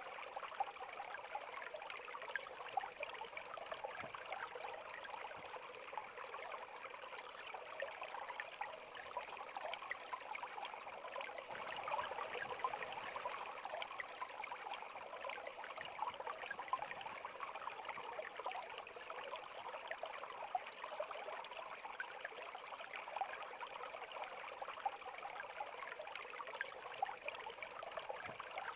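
River water running over rocks: a steady rush with many small splashes and trickles.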